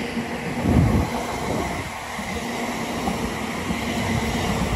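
West Midlands Railway Class 730 Aventra electric multiple units, two coupled units, passing through the station: a steady rumble of wheels on rail with a steady hum under it, and a low thump a little under a second in.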